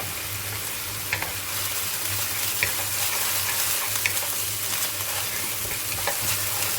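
Diced onion and whole spices frying in hot ghee in a wok: a steady sizzle, with a few sharp clicks of a spatula as it is stirred.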